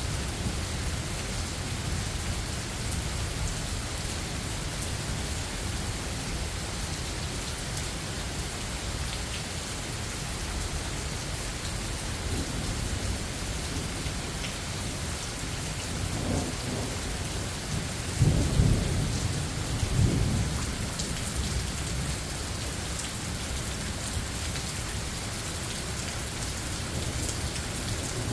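Steady rain falling in a thunderstorm, with thunder rumbling low a few times about two-thirds of the way through, loudest at around 18 seconds.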